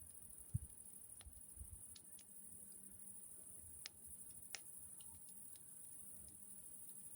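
Faint wood campfire crackling: a few sparse, sharp pops and clicks of burning wood, with a dull low thump about half a second in.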